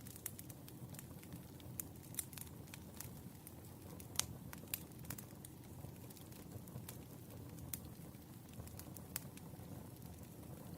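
Firewood burning in a fire, crackling: irregular sharp pops and snaps over a low steady rumble, the loudest pop about four seconds in.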